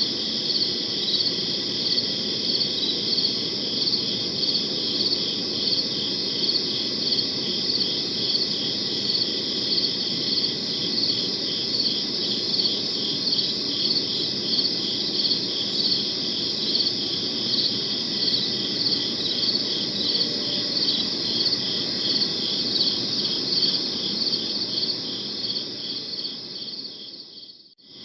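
Crickets chirping in a steady, rhythmic chorus of high pulses over a low background rumble. Near the end the sound fades out and starts again.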